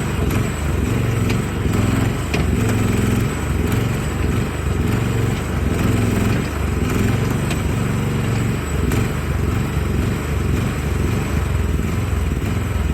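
Mini excavator's diesel engine running under hydraulic load, its note dipping and swelling as the arm and bucket work, with a few faint clicks and scrapes.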